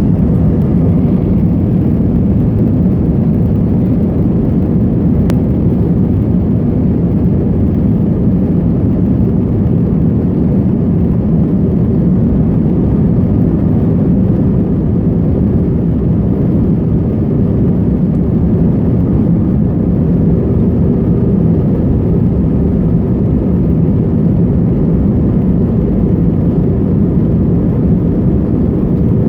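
Airbus A321 jet engines running at takeoff power, a loud, steady low drone with faint even tones in it that holds without change.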